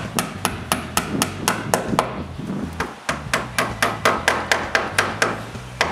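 Hammer driving nails into drip cap molding: quick, evenly spaced blows, about four a second.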